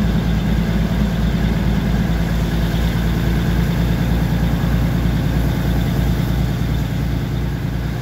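Diesel train engine running steadily with a low, pulsing hum.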